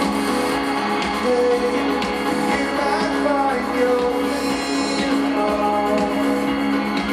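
A live rock band playing, with held guitar chords and sustained notes at a steady, loud level.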